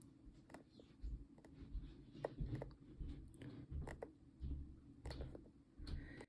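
Irregular small clicks and taps, several a second, with soft low knocks and bumps, from hands handling craft materials and tools on a work table.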